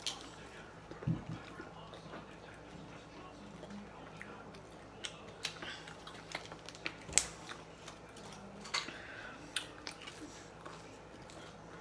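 People chewing and eating chicken nuggets, with scattered small clicks and crackles, the sharpest about seven seconds in, and a soft thump about a second in.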